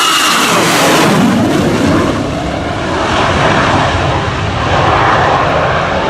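F-22 Raptor and F-35A Lightning fighter jets passing overhead. A high engine whine stops just as they go by and gives way to a loud, steady jet roar with a pitch sweep falling over the first couple of seconds.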